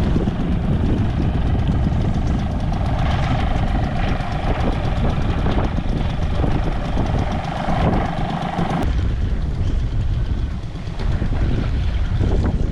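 4 hp Mariner outboard motor idling steadily during its run-in after a new water-pump impeller was fitted. A higher steady whine joins about three seconds in and stops suddenly about nine seconds in.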